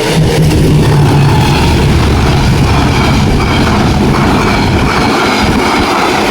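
A train passing close by: a loud, steady low rumble, with a low hum over the first couple of seconds.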